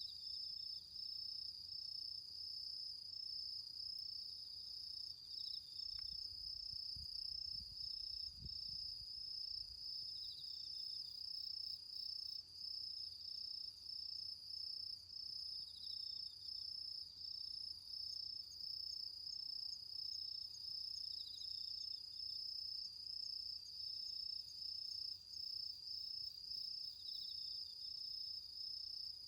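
Autumn insects chirring steadily in a high, fast-pulsing chorus, with a slightly lower insect call coming in every few seconds. A couple of faint low thumps come in about a third of the way through.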